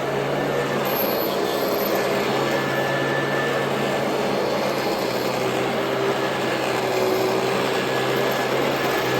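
Royal Model 2008 upright vacuum cleaner running steadily: a broad rushing noise over a steady low motor hum.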